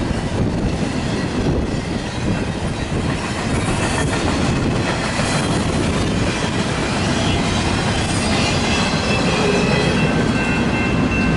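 A BNSF double-stack intermodal freight train's container cars rolling past with a steady rumble and wheel clatter on the rails. In the last few seconds a thin, steady, high wheel squeal joins in as the end of the train goes by.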